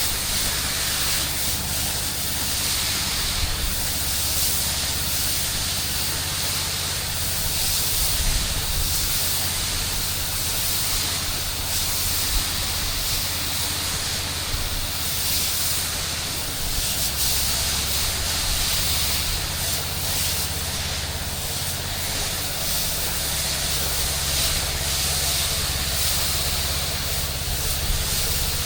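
Pressure-washing rig running: a loud steady hiss of spraying water over a steady low engine drone.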